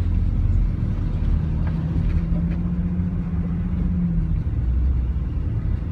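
Pickup truck driving, a continuous low engine and road rumble, with a steady engine drone that holds for a few seconds in the middle.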